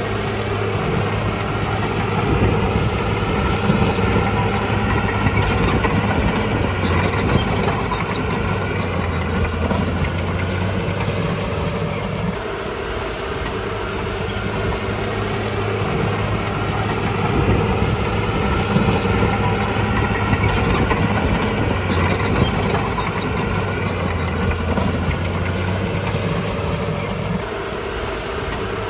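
Crawler bulldozer's diesel engine running steadily, its loudness and low pitch swelling and easing in slow cycles as it works under load, with a few sharp clicks twice.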